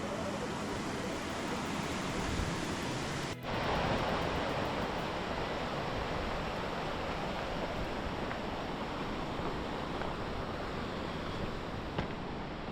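Steady rushing of creek water over rock, with a brief gap about three seconds in, after which the rush comes back a little louder.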